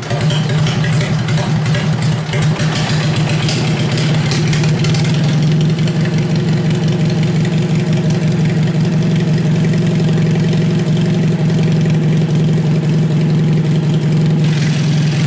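Worn-out Kohler KT17 twin-cylinder engine on a Simplicity garden tractor running just after a cold start. It runs raggedly at first and settles into a steadier idle about five seconds in.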